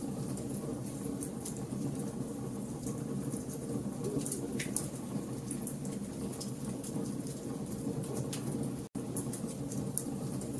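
Wood campfire burning: a steady low rush from the flames with frequent sharp crackles and pops from the burning logs. The sound cuts out for an instant about nine seconds in.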